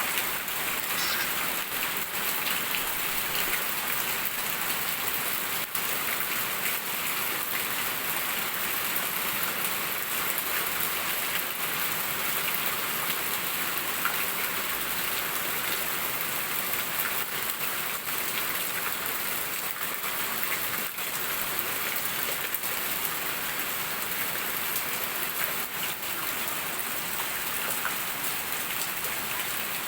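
Heavy rain falling steadily and hissing on the ground and surfaces, coming down harder.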